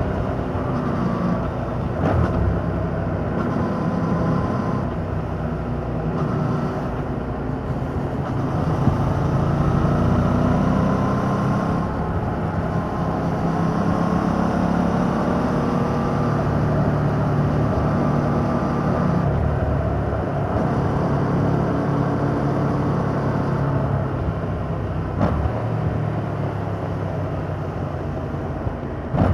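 Yamaha MT-07's parallel-twin engine running on its stock exhaust while riding, its note rising and falling as the throttle is opened and eased, over steady wind and road noise.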